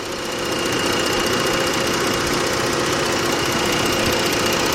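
A 2006 Jeep Grand Cherokee's 3.7-litre V6 idling steadily, with a thin, steady high whine over the engine noise.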